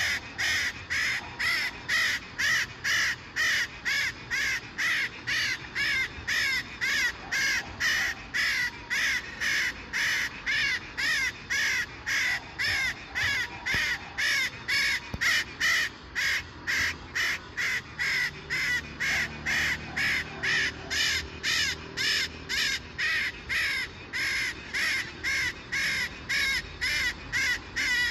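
A maritaca parrot calling over and over: short, scratchy arched notes repeated evenly at about two a second.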